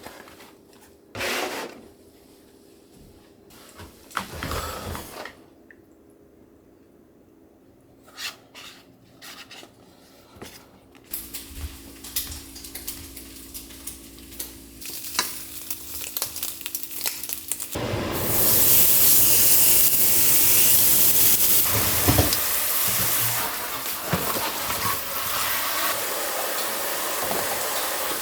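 Cooking in a kitchen: a few knocks and clicks of utensils, then food frying in a pan, with a loud, steady sizzle from about two-thirds of the way in.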